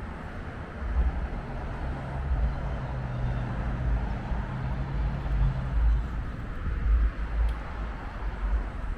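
A car driving: a steady low road and engine rumble, with a low hum that holds for a few seconds in the middle.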